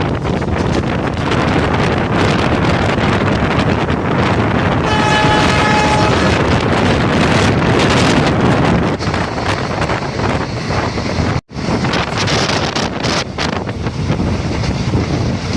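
Running noise of a moving passenger train, heard from aboard with heavy wind buffeting the microphone. A steady chord of several tones sounds for about a second and a half, about five seconds in. The sound cuts out for an instant about eleven seconds in.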